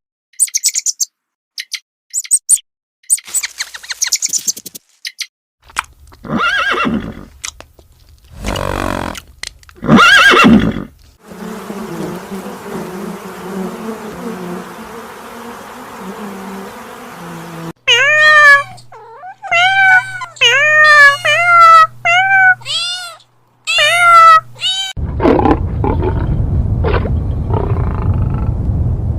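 A string of different animal calls cut one after another: short high chirps, then a few loud pitched calls, then a run of about eight short rising-and-falling calls, and a low rough roar-like sound near the end.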